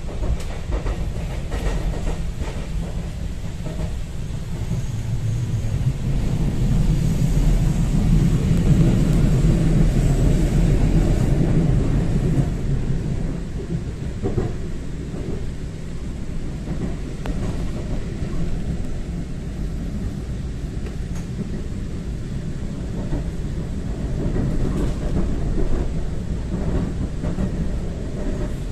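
Train running on the rails: a steady low rumble with some clatter, swelling about six seconds in and easing off after about twelve seconds.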